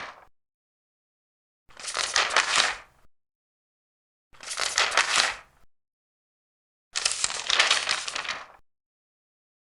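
Large paper pages being turned by hand, three separate turns, each a crisp rustle of about a second and a half, with dead silence between them.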